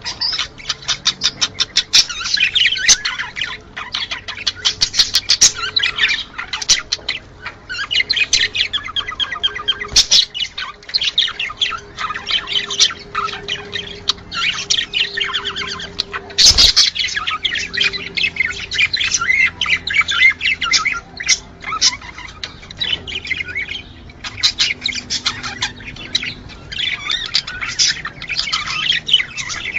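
Budgerigars chattering and warbling: a continuous stream of rapid chirps, squawks and twittering from several birds. A single sharp click sounds about two-thirds of the way through.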